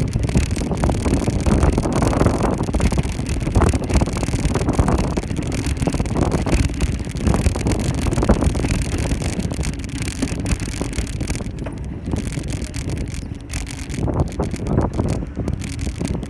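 Wind buffeting the microphone of a moving bicycle, over a steady low rumble of tyres on the road.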